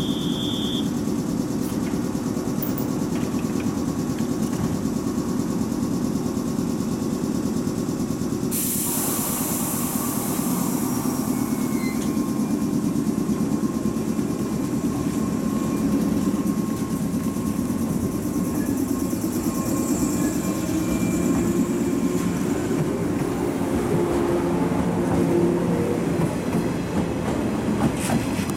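Electric local train at a station platform: a short high beep right at the start, then a sudden loud hiss of compressed air about nine seconds in as the doors close. The train then pulls away, its motors humming higher and higher and its wheels clacking over the rail joints near the end.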